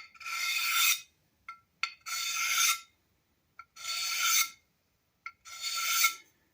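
Hand file drawn four times along the edge of a cast-iron plane sole, each stroke about 0.7 s long with a short tap as the file meets the metal, filing a small chamfer to smooth off the sharp corner. A faint ringing note sounds under each stroke.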